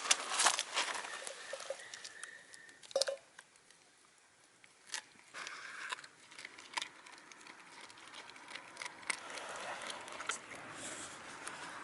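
Shiba Inu crunching and chewing chicken wing tips: a quick run of crisp bone cracks at first, then, after a short lull, scattered single chewing clicks.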